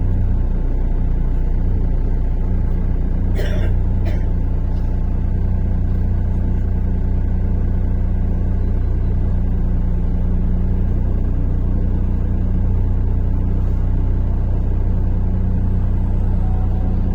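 Inside a MAZ-103 city bus under way: a steady low drone from the engine and road rumble, with two brief sharp sounds about three and a half and four seconds in.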